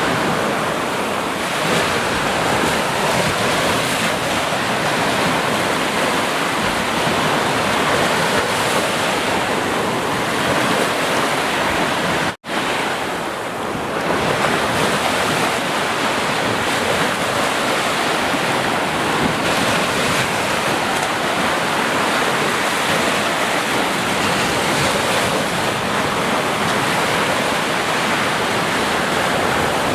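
Ocean waves breaking and washing on the shore in a steady surf, with a brief silent gap about twelve seconds in before the surf resumes.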